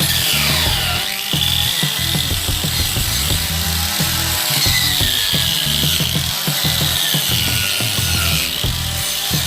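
Angle grinder working on sheet metal, its whine dipping and rising repeatedly as it is pressed into the work and eased off.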